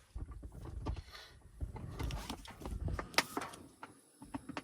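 Handling of a Jiffy Pop stovetop popcorn package: irregular rustling and crinkling with scattered clicks and a few sharper ones about three seconds in.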